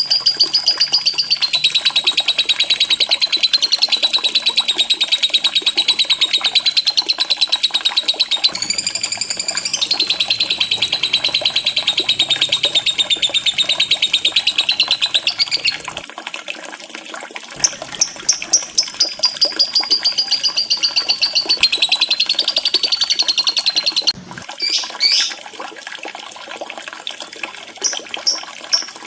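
Lovebird singing a long, rapid chattering trill (the 'ngekek'), very fast repeated high notes. One run lasts about sixteen seconds, then after a short break a second run of about six seconds follows, and short chirps come near the end.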